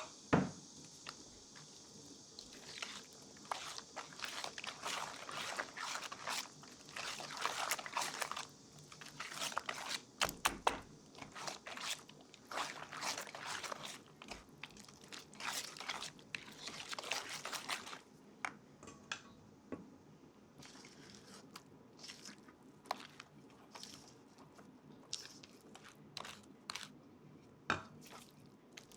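Baking preparation sounds: a quick run of short crunching, scraping strokes, thinning out to scattered clicks in the second half.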